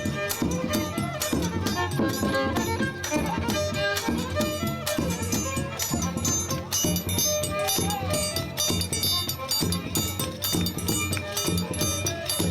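Live reisado folk music: a melody instrument plays over a fast, steady beat of rattling percussion.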